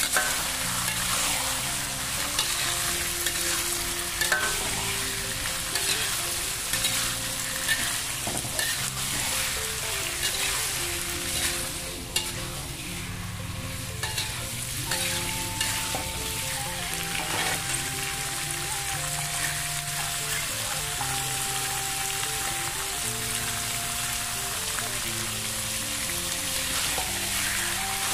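Food sizzling and crackling as it fries in hot oil in a pan, with background music of held notes playing underneath.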